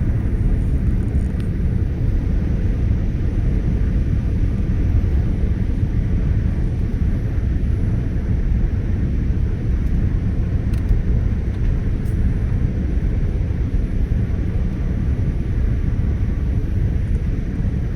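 Steady low rumble of airflow and engine noise inside an airliner's passenger cabin during descent.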